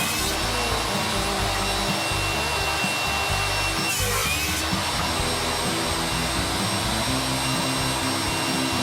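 A power tool running steadily on wood, over background music.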